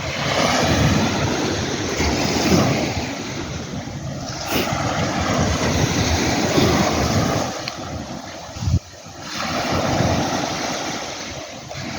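Sea waves rushing in and breaking on the shore, with wind buffeting the microphone. The surf swells and ebbs, falls away briefly about nine seconds in, then builds again.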